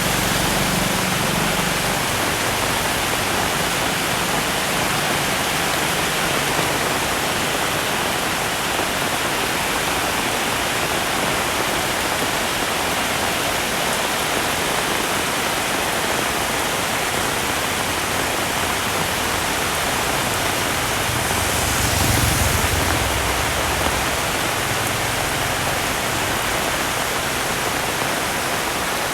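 Heavy rain falling steadily in a dense, even hiss. About three quarters of the way through, a brief louder swell of noise rises and fades.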